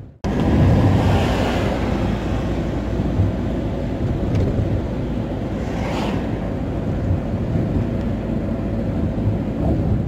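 Camper van driving on the road, heard from inside the cab: a steady low engine and tyre rumble. Two brief swells of rushing noise come about a second in and again about six seconds in.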